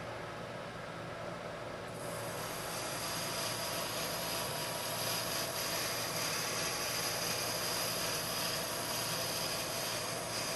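Metal lathe running while a right-hand turning tool takes a roughing cut about 50 thousandths of an inch deep, fed by hand. The cutting noise comes in about two seconds in and then holds steady, with a faint high whine over the machine's low hum.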